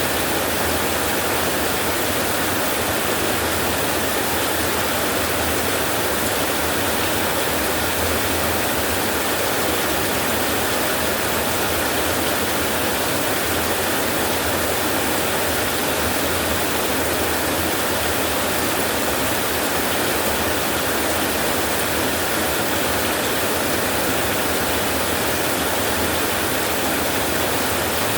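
Steady rainfall: an even, unbroken hiss with no single drops or thunder standing out.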